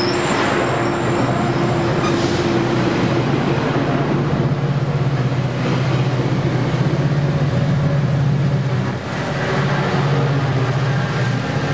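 Metrolink commuter train rolling past close by: a steady, loud rumble of wheels on rail and diesel running, with a brief dip about nine seconds in.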